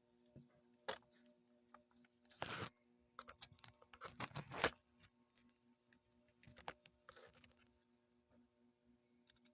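A few short, irregular scraping and crunching noises of metal work on a motorcycle's steel clutch plate, the loudest about two and a half and four seconds in, over a faint steady hum.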